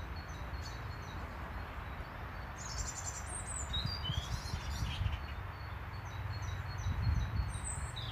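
Wild birds chirping: series of short, evenly repeated high chirps, with a brief flurry of quick rising and falling notes about three seconds in, over a steady low rumble.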